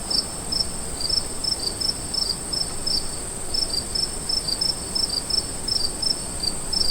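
Insects chirping: short high chirps repeated about four times a second over a steady, higher-pitched trill.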